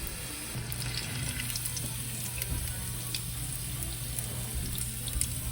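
Threaded chicken, coated in shredded puff-pastry strands, deep-frying in hot oil: a steady sizzle with small crackles, over a low steady hum.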